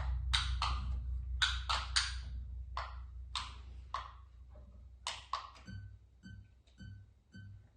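Experimental electronic music: sharp, irregular clicking strikes over a low drone that fades away. About two-thirds of the way in, a steady pulse of short high beeps, each with a low thud, takes over at about two a second.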